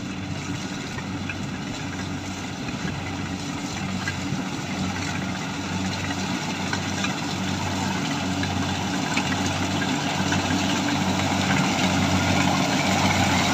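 Kubota combine harvester's diesel engine running steadily with its machinery noise, growing gradually louder.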